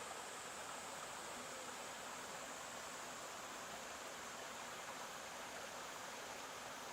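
Stream flowing: a steady, unbroken rush of water.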